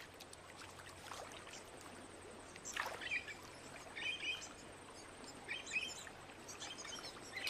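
Small birds chirping in short phrases, four or five times, over a faint steady background hiss of the river backwater, with a brief noise about three seconds in.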